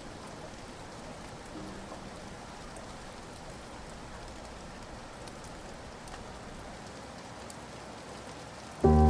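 Steady rain falling, an even hiss of drops. Just before the end, music comes in loudly over it.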